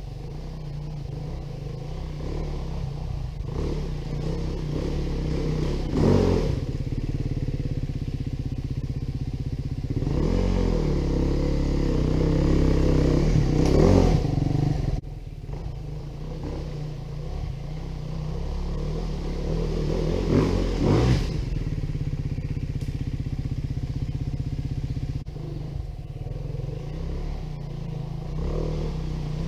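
Four-stroke single-cylinder engine of a 2019 Beta 390 RR-S enduro dirt bike running at low revs on the trail, opened up and revved higher several times.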